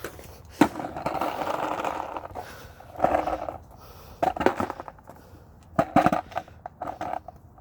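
Skateboard on a wet sidewalk: wheels rolling with a gritty rumble in two short spells, and several sharp clacks of the board.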